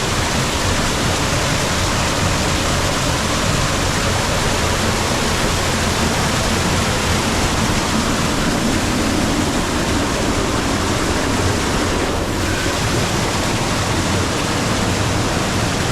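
Rain-swollen waterfall and creek in flood, a loud steady rush of falling and churning water.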